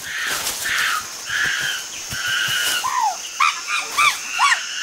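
Chimpanzees calling during an intimidation display: hoarse screams at first, then a quick series of short rising-and-falling hoots from about three seconds in.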